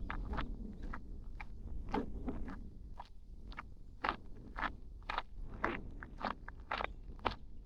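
Footsteps of a person walking a bush trail, each step a short crunch, at a steady walking pace of about two steps a second.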